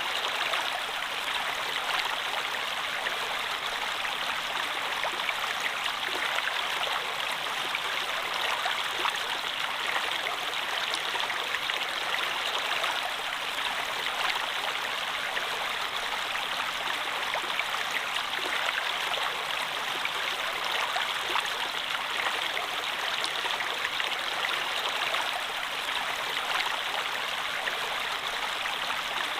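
Stream water flowing steadily, an even unbroken rush.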